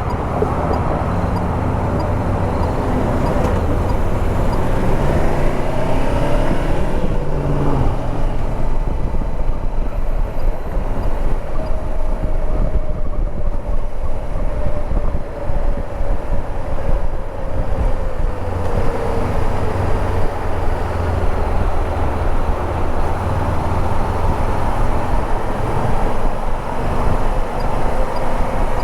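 2014 Honda CB500X's parallel-twin engine running under way, with wind and road noise over the rider's microphone. The engine pitch rises and falls slowly a few times as speed changes.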